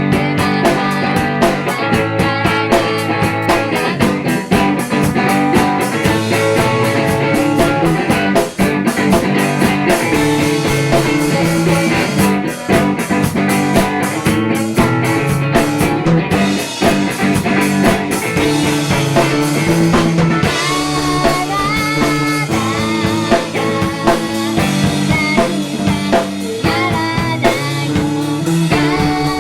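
A live three-piece pop-rock band playing: electric guitar, bass and drum kit, with a singing or lead melody coming in about twenty seconds in.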